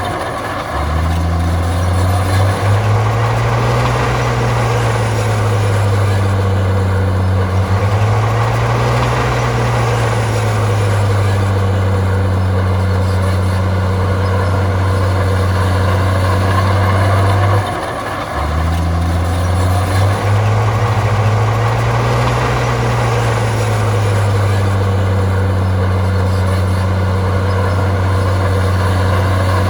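Heavy diesel engine of earthmoving machinery working under load. The engine note swells up and settles back several times, and dips briefly about 18 seconds in.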